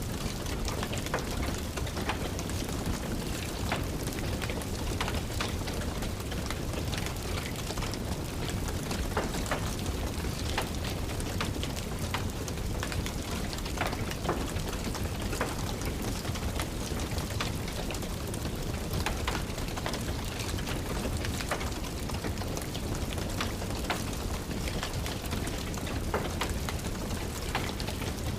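Steady rain falling, with frequent sharp crackles and pops from a burning wood fire in a fireplace, scattered at irregular intervals.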